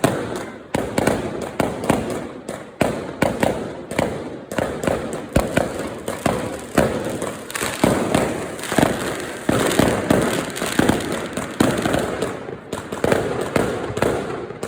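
Fireworks and firecrackers going off all around: a dense, unbroken stream of loud bangs and crackles, several a second, overlapping one another.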